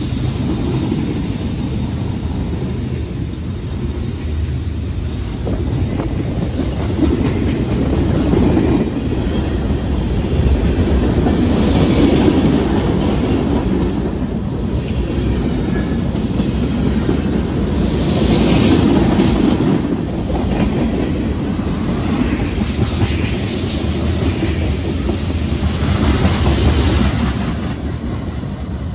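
Mixed freight train's cars rolling past close by: a steady rumble and clatter of steel wheels on the rails.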